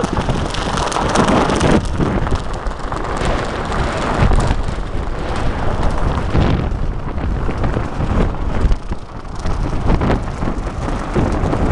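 Strong gusting storm wind buffeting the microphone, a loud, rough rumble that swells and eases with the gusts.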